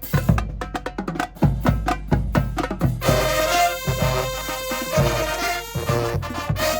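High school marching band: the drumline plays alone for about three seconds, then the brass section comes in with loud held chords over the drums.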